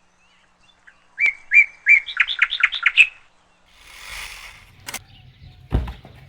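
A small bird singing a quick run of about eight clear chirps that speed up, lasting about two seconds. Afterwards a brief soft rushing noise, a click and a low knock near the end.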